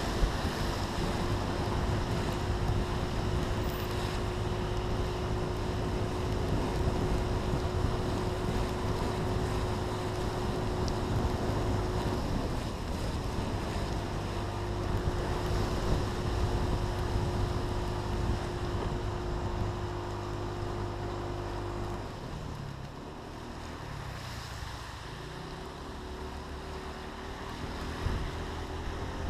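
Steady rushing noise of wind and rain on the camera, with a steady motor hum and low drone under it that stops about 22 seconds in, leaving a quieter rush.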